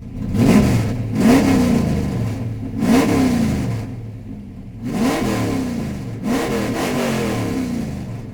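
Car engine being revved in a series of quick blips: about five times the pitch rises sharply and then falls back toward idle between them.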